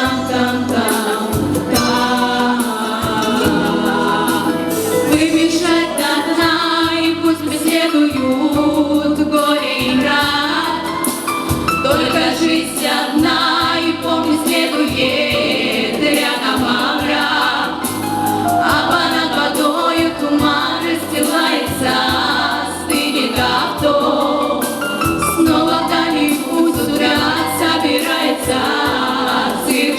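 Music: a female vocal quartet singing in harmony.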